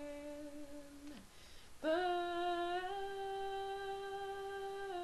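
A woman's voice humming a cappella, wordless: a low held note that dips and fades out about a second in, then after a short pause a higher note that rises slightly and is held steadily for about three seconds.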